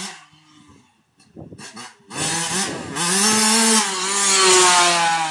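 Small motorbike engine revving hard from about two seconds in, then its pitch falling near the end.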